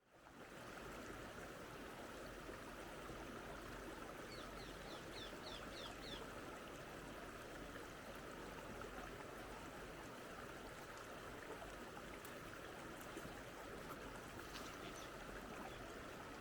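A stream running steadily, with a quick run of about seven high chirps from a bird about four seconds in.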